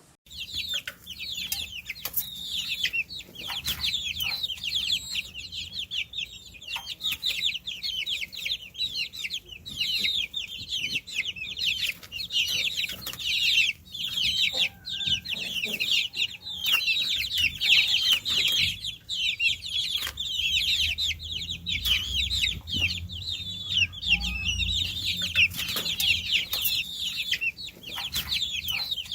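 A brood of baby chicks peeping nonstop, many high, short, downward-sliding peeps overlapping one another.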